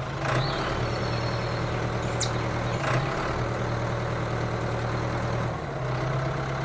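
Steady low engine hum from a mini tractor, running like an idling vehicle. Its pitch drops slightly about a second in and rises again near the end, with a few light clicks over it.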